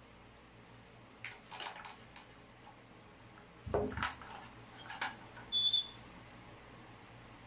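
Hard objects being handled and set down during plumbing work: a few clinks about a second in, a heavier thump about halfway, more clicks, and a short high squeak just before the end.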